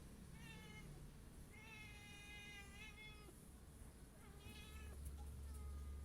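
Domestic cat meowing three times, faint: a short call, a longer drawn-out one that drops in pitch at the end, then another short one.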